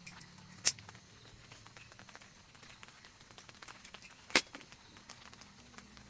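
Two sharp cracks, one about a second in and a louder one near four and a half seconds, with faint scattered ticks and a low steady hum between them.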